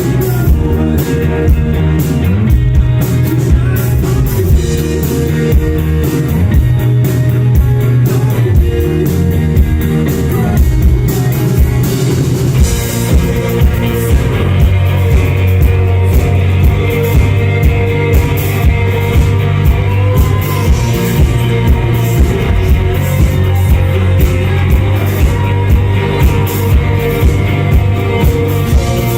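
Rock band playing live: electric guitars, bass and drum kit with a steady beat, and singing.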